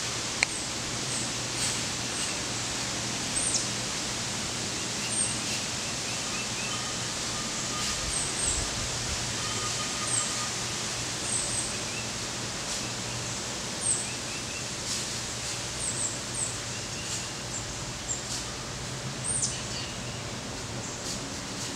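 Birds calling in the trees: short, high chirps repeated every second or two over a steady outdoor hiss and a faint low hum. A single sharp click comes about half a second in.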